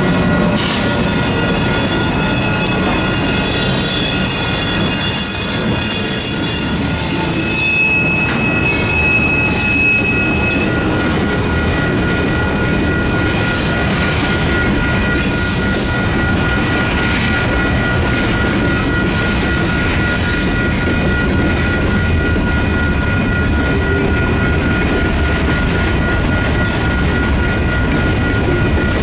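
Freight train rolling slowly through a grade crossing, a steady rumble of wheels on rail, with the crossing's warning bell ringing the whole time. Steel wheels squeal high-pitched against the rails for the first several seconds, and again briefly about eight seconds in.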